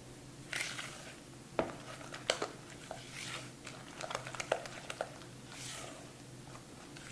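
A utensil stirring a grated-cheese and seasoning mixture in a bowl: irregular clicks and short scrapes against the bowl.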